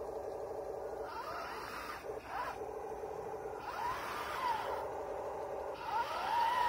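A 1:16 RC M26 Pershing tank's electronic engine sound running steadily, with a rising-and-falling whine three times as the tank is driven.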